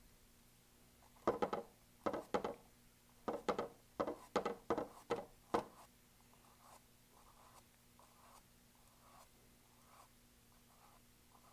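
Paintbrush bristles scratching across a canvas in short flicking strokes, about ten quick, louder strokes in the first half, then fainter, slower strokes about once a second.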